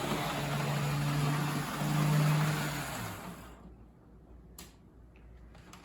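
HO-scale model locomotive running on the track, its small electric motor and wheels giving a steady whir with a low hum. The whir fades away about three and a half seconds in, leaving a few faint clicks.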